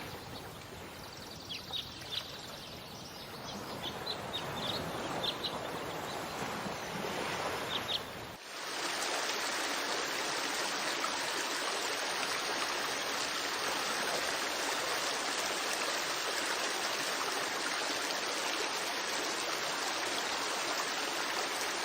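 Outdoor ambience with scattered short bird chirps, then about eight seconds in it switches abruptly to a steady rush of running water.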